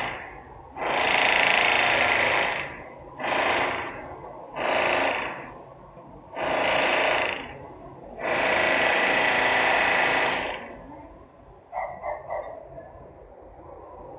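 Loud industrial power-tool or machine noise in repeated bursts, each from about half a second to two and a half seconds long, the longest near the end. A few short clacks follow.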